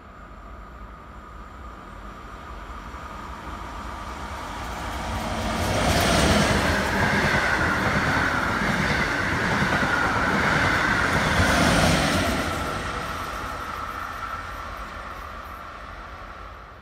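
SBB passenger train of coaches passing along a station platform. Its rumble swells to its loudest from about six to twelve seconds in, with a steady high tone over it, then fades away.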